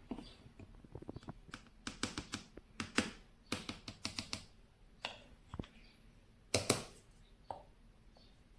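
An irregular run of sharp clicks and knocks from hard objects being handled, with the loudest pair of knocks about six and a half seconds in.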